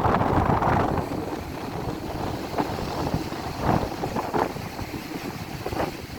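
Ocean surf breaking and washing up the beach, with wind buffeting the microphone. Loudest in the first second, then easing off.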